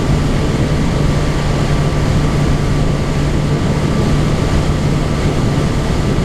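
Sport bike engine running at a steady cruise, under heavy wind noise on the rider's microphone.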